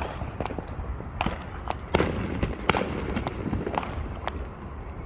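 Fireworks going off: a rapid, irregular series of sharp pops and bangs, the two loudest about two and two and a half seconds in, over a steady low rumble.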